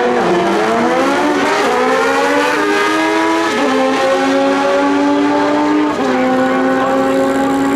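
Naturally aspirated stock sport-bike engine accelerating hard down a drag strip, its pitch climbing and then dropping abruptly at each upshift, about four gear changes, holding a steady high note over the last couple of seconds.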